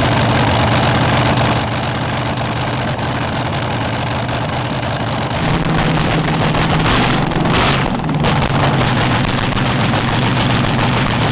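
Drag racing car's engine fired up and running loudly and steadily at a rough idle, with a brief surge about seven seconds in.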